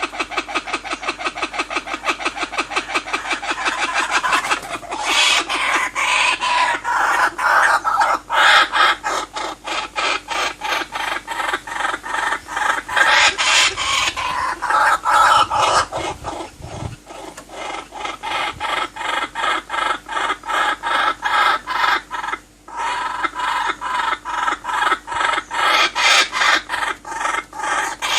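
A bird calling in a rapid, steady stream of short clucking notes, about six a second.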